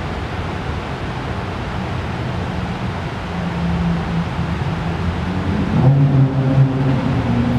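Car engine running steadily over a constant hiss. Its hum strengthens about three seconds in and gets louder again near the end.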